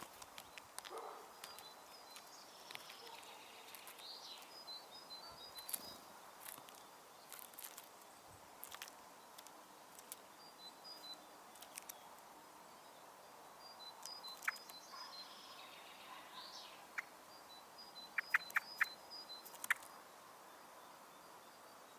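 Faint distant bird song and calls, with sharp clicks and taps of birds pecking seed at a feeder scattered throughout, including a quick run of four taps near the end.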